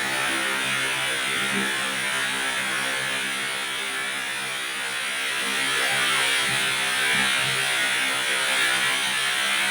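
Heavy rain pouring down in a steady, dense hiss, driven by strong wind.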